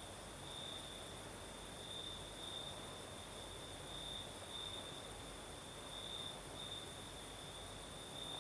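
Crickets trilling steadily, one high continuous note that swells and fades every second or so. There are three faint ticks in the first few seconds.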